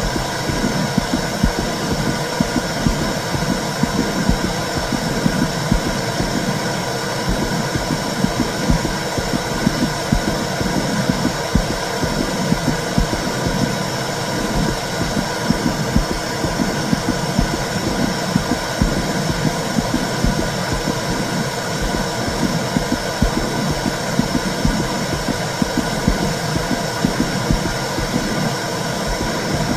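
Womb sound for soothing a baby: a steady whooshing rumble, like blood flow, with a rhythmic low pulsing running through it.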